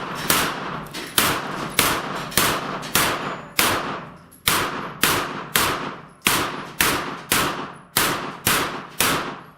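A firearm fired in a rapid string of about sixteen shots at steel plate targets, roughly one every half second, each shot with a long echoing tail. There is a slightly longer pause a little before halfway through.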